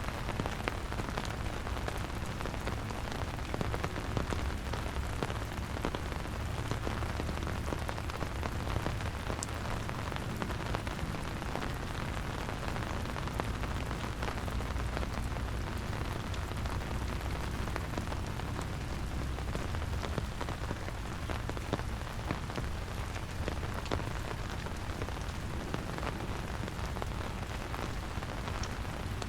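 Steady rain falling, with a dense scatter of small drop ticks over an even hiss and a steady low rumble underneath.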